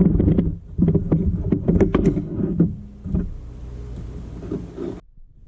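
Iron-block 5.3L LS V8 on open headers with no mufflers, cold-started for the first time: it runs loud and choppy for the first two to three seconds, then settles quieter before the sound cuts off abruptly near the end.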